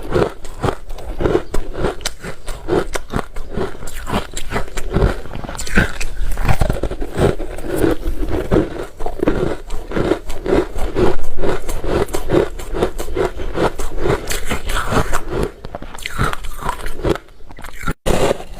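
Ice being bitten and chewed close to the microphone: a fast run of crunching that keeps going throughout, with a brief break just before the end.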